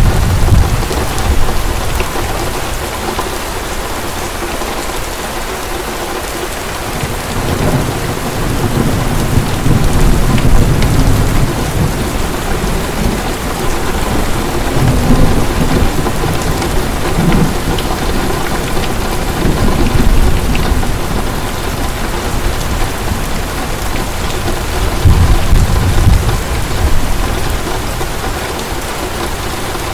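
Heavy rain pouring steadily, with distant thunder rolling low several times: at the start, about a third of the way in, and again near the end.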